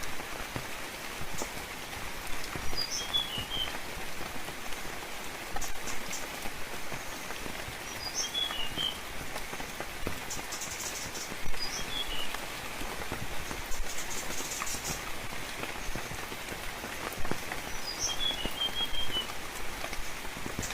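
Rain falling steadily, with scattered drops tapping, and a small bird giving a short phrase of a few high chirps four times.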